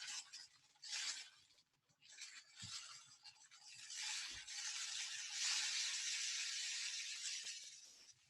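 Rice trickling down through a homemade cardboard-tube rain stick, slowed by curled aluminium-foil spirals inside: a soft, even rushing patter that builds over several seconds and fades near the end, after a brief rustle about a second in.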